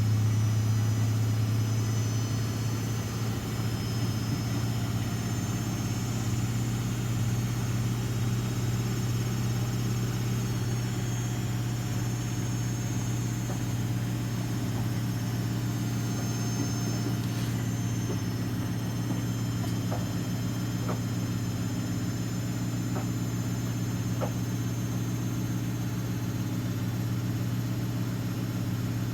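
Several Miele washing machines, a W 2241 and an Edition 111 among them, running together: a steady, even motor hum with a few faint ticks near the end.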